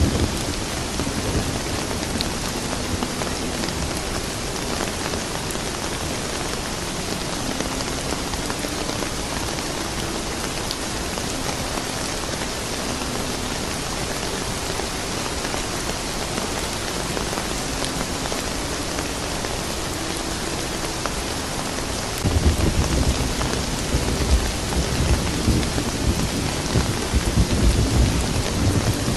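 Steady rain falling, with a low rumble of thunder that rolls in suddenly about three-quarters of the way through and grows uneven and louder.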